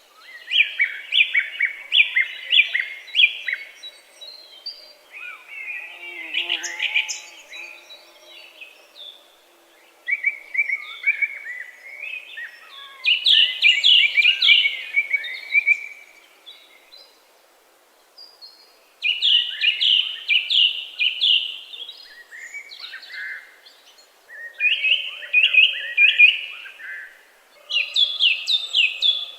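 A songbird singing repeated phrases of rapid, chirping notes, each phrase lasting a few seconds, with short pauses between them.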